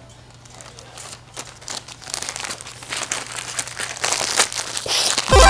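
A bag of flocking fibres being shaken and fluffed, a dense irregular crinkling that grows louder. Loud music with a heavy bass comes in near the end.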